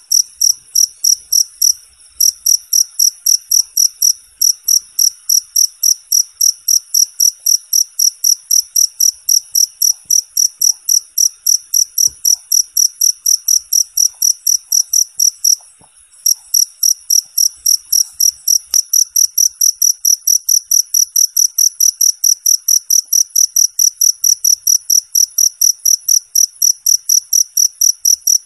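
A cricket chirping steadily in a fast, even train of short, high-pitched chirps, about three a second, with two brief breaks, one about two seconds in and one near the middle.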